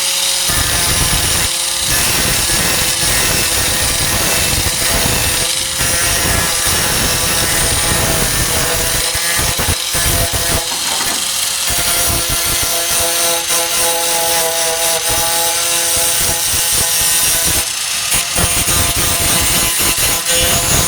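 4-1/2 in. angle grinder with a thin cutting disc running under load, cutting through rusted tailgate sheet steel. Its steady whine wavers slightly in pitch and dips briefly a few times as the blade is eased off and pushed back in.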